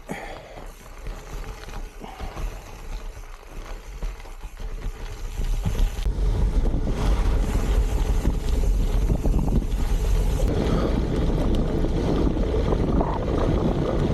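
Wind buffeting the microphone during a gravel bike ride, a steady rumbling rush that grows much louder about five seconds in.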